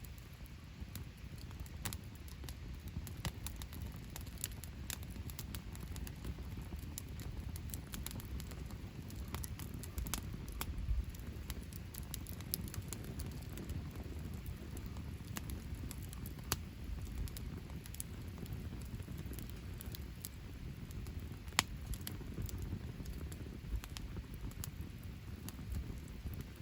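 Wood fire crackling, with irregular sharp pops, a few of them louder, over a steady low rumble.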